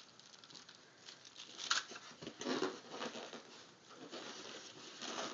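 Faint rustling and light clicks from ceiling fan parts and their packaging being handled.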